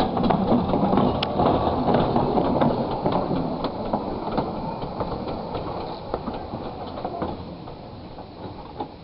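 Minimum-gauge railway train rolling past, its wheels clicking over the rail joints amid a rattle of the carriages, fading steadily as it draws away.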